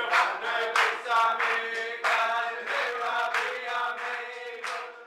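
A choir singing over a steady held note, fading out toward the end.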